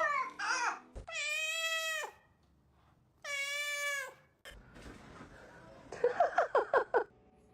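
Domestic cat meowing: two long, drawn-out meows held on a steady pitch, then near the end a quick run of about seven short sounds.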